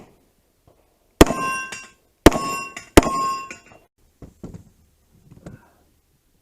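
Three gunshots about a second apart, each followed by the bright ringing clang of a hit steel target; a few fainter knocks follow.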